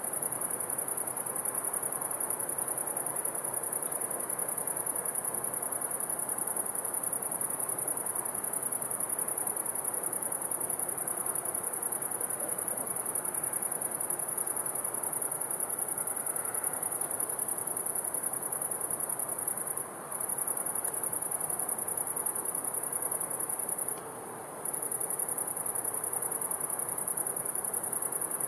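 Crickets chirring in a continuous high-pitched trill, stopping for a moment twice, about twenty seconds in and again some four seconds later, over a soft, even rush of river water.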